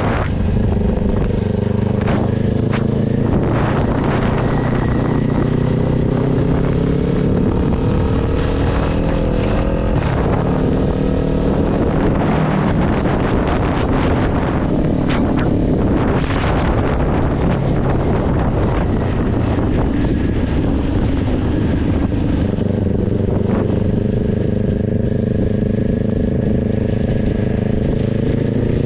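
Kawasaki Ninja 400's parallel-twin engine under way, its pitch climbing steadily as the bike accelerates, dropping with an upshift about ten seconds in and again near the end, then climbing again.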